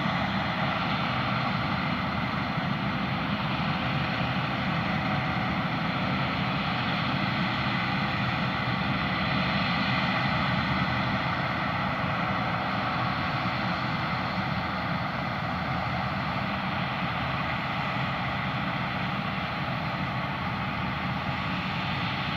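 Claas Lexion combine harvester working through spring barley: a steady drone of engine and threshing machinery with several held tones, a little louder about halfway through, then easing slightly.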